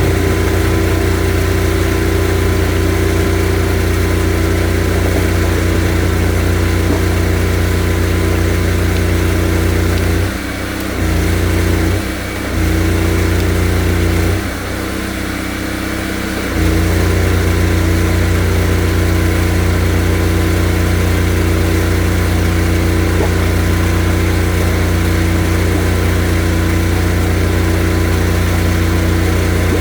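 High-pressure drain jetter's engine and pump running steadily with a deep hum. Its low drone drops away briefly three times around the middle, the longest for about two seconds, then resumes.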